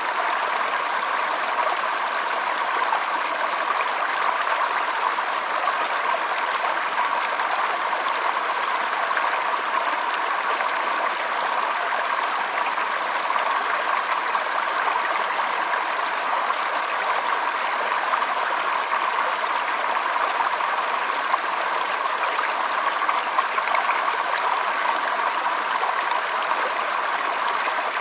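Running water of a stream, a steady even rush and trickle.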